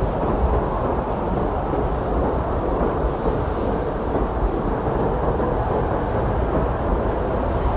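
Blizzard wind blowing hard and steadily: a deep, unbroken rumble with no gusts that stand out.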